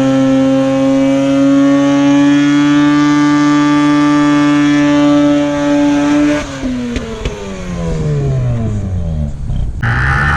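Mazda RX-8 rotary engine held at high revs, climbing slightly, then the revs falling away steadily over a few seconds; near the end a loud steady hiss comes in as the engine note wavers at lower revs.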